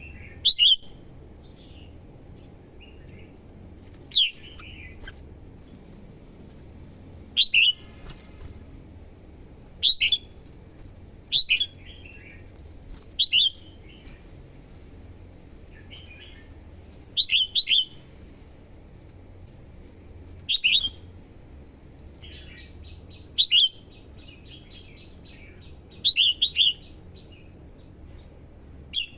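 Red-whiskered bulbul singing short, loud whistled phrases, about a dozen of them every couple of seconds, with a few quieter notes between.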